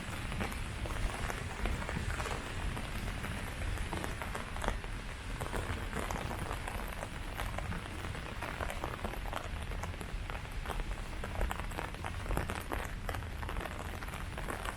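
Steady rain falling on leaves, a constant patter of many drops with irregular sharper drip hits scattered throughout.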